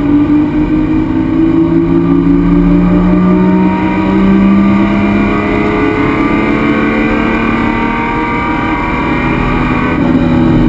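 Race car engine heard from inside the stripped cabin, accelerating with its pitch rising slowly and steadily.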